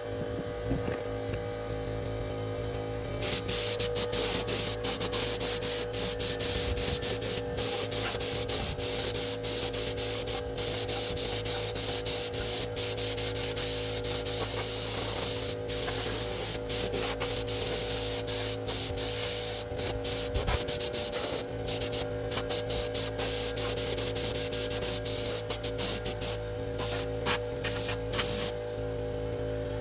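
Paint spraying hiss in quick on-off bursts with many short breaks, starting a few seconds in, over a steady electrical hum.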